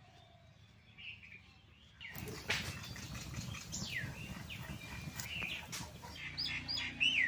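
Small birds chirping, short falling calls that come more often near the end. From about two seconds in they sit over a rustling, crackling noise with scattered clicks.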